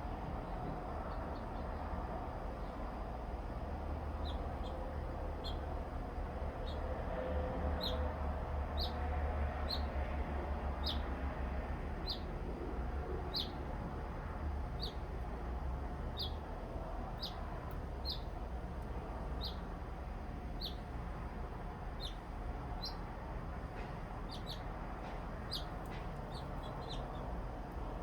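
A songbird chirping: short, high chirps repeated about once a second, starting a few seconds in, over a steady low rumble.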